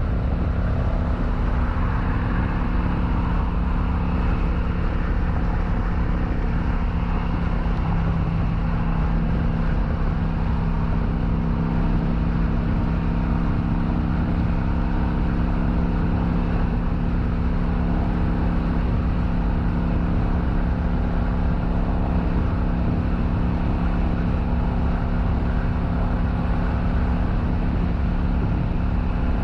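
Kawasaki Vulcan 900's V-twin engine running steadily as the motorcycle is ridden, over a low haze of road and wind noise. Its pitch rises slightly about eight seconds in.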